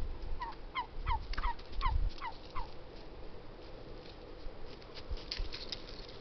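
A bird calling: a quick series of about eight short, falling notes, then fainter high twittering a few seconds later.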